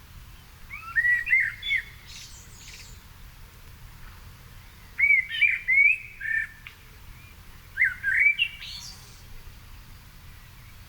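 A songbird singing three short phrases a few seconds apart, each of clear whistled notes followed by a higher, scratchy twitter.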